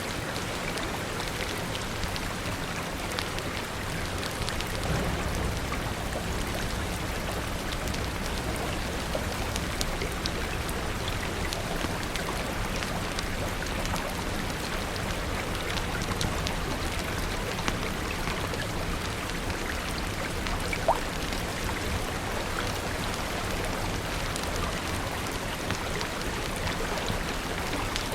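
Steady rain falling, with scattered small sharp crackles from a wood fire mixed in. A low rumble swells under the rain from about five to eleven seconds in.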